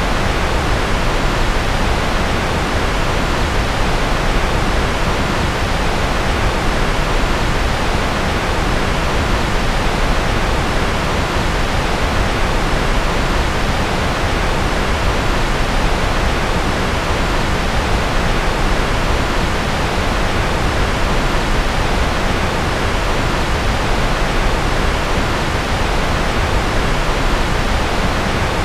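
Continuous generated noise for focus: an even, unchanging hiss with no breaks or events, fuller in the low and middle range than at the top.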